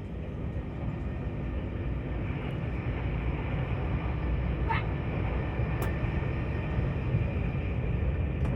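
Tilt Train running along the line, a steady low rumble of wheels and running gear heard in the carriage, with a faint short squeal about halfway through.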